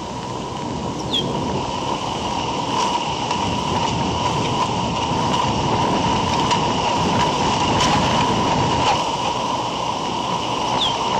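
Steady rumbling noise with a constant high hum, broken by two short falling chirps, one about a second in and one near the end.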